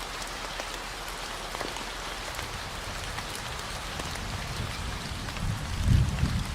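Steady rain falling, with a low rumble of distant thunder swelling near the end. A steady low 40 Hz tone hums underneath.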